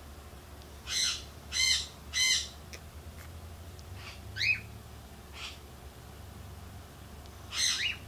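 Caged birds squawking: three short harsh calls in quick succession starting about a second in, then a quick rising chirp, a short call, and another harsh call near the end.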